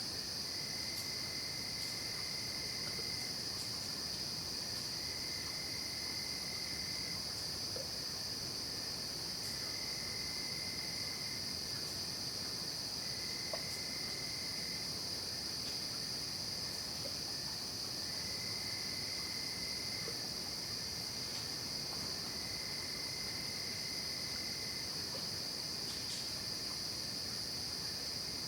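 Night chorus of crickets and other insects: a steady high-pitched shrill without a break, with a lower, separate trill of about two seconds that repeats every three to four seconds.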